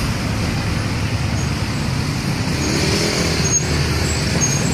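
Heavy road traffic, with the low, steady rumble of large diesel trucks passing. About three seconds in, an engine note briefly rises and falls.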